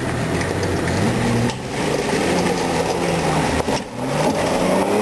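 SUV engine working over a rutted off-road trail, revving up and easing off, with two brief dips in the throttle.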